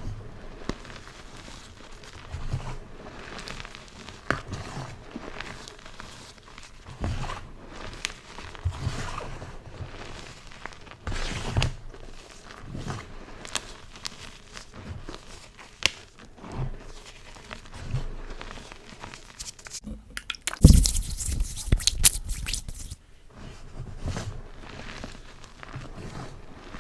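Blocks of gym chalk being crushed, crunching and crumbling in irregular bursts with crisp crackles, and a longer, louder crunch about three quarters of the way through.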